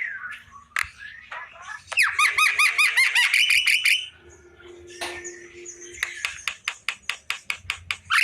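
Javan myna (jalak kerbau) calling: about two seconds in, a loud fast run of repeated looping notes, about eight a second, then after a pause a rapid string of short, sharp notes near the end.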